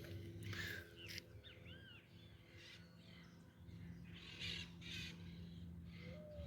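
Faint wild birds calling: harsh, cawing calls, with a few short arched whistled notes in between.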